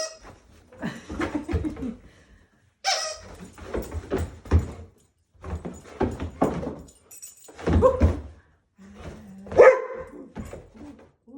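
A dog barking repeatedly, in a string of separate short barks with pauses between them.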